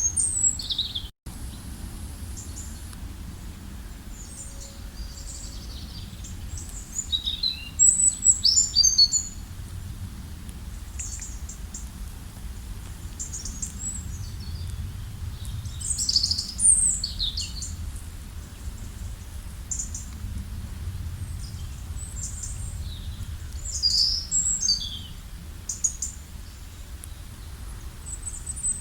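Several wild songbirds chirping and trilling in short, scattered high-pitched phrases, with a few louder bursts of calls. Underneath runs a steady low rumble of outdoor background noise, and the sound cuts out for a split second about a second in.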